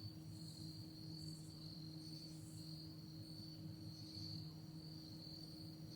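Crickets trilling steadily and high-pitched, over a faint low hum.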